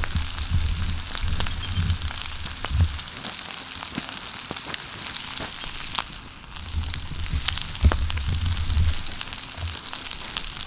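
Sockeye salmon bellies sizzling as they cook over a campfire: a steady frying hiss with scattered sharp pops and crackles. Bouts of low rumble come in the first three seconds and again from about seven to nine seconds in.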